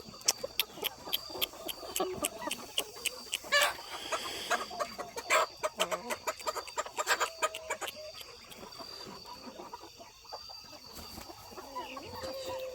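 Chickens clucking, with a run of sharp clicks and taps over the first eight seconds, several a second, that then thin out.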